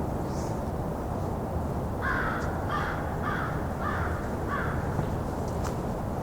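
American crow cawing five times in a quick, even series starting about two seconds in, over a steady low rumble.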